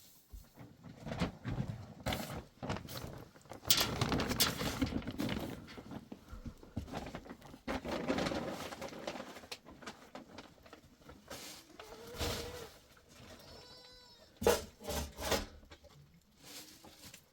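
Goats bleating, one clear call about two thirds of the way in, among irregular rustling and knocking noises.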